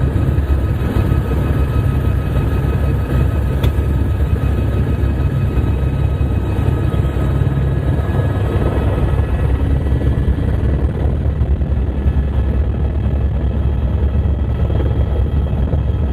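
Helicopter running in flight: steady heavy rotor and engine noise with faint, high, steady turbine whine tones above it.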